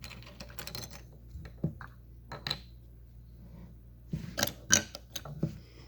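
Small plastic Lego pieces clicking and rattling as they are handled and pressed together. A short cluster of clicks comes at the start, a few single clicks follow, and a busier burst near the end holds the loudest click.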